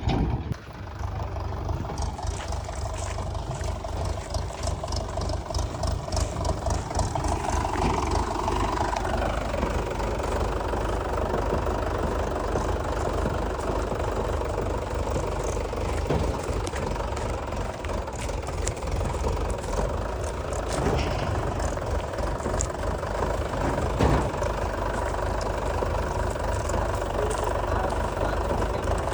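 Heavy diesel engine running steadily, its pitch rising about seven seconds in and dropping back about two seconds later.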